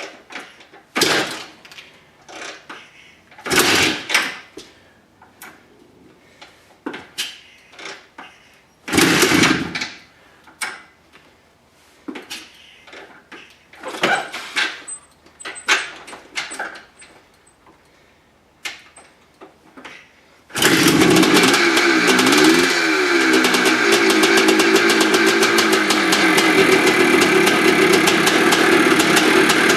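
1982 Maico 490 two-stroke single-cylinder dirt bike being kicked over again and again, a string of separate strokes and clatters. About twenty seconds in it catches, revs up and down once, then runs steadily.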